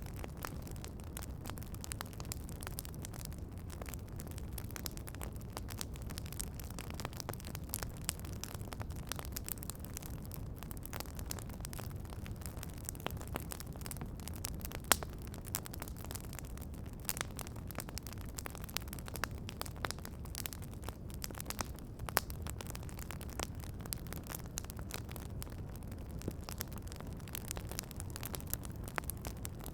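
Wood campfire crackling: frequent small, irregular pops and snaps over a low steady rumble, with one sharper, louder pop about halfway through.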